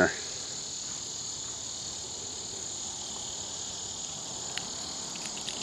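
Steady high-pitched chorus of summer insects, the loud bugs along the creek, with a few faint ticks near the end.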